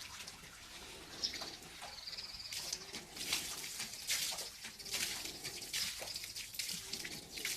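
A traditional straight razor scraping across skin and stubble in a run of short, irregular strokes, a few each second.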